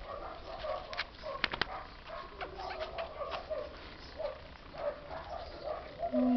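Several dogs whining and yelping over one another, short overlapping cries with a few sharp clicks about a second and a half in and a louder, lower whine near the end.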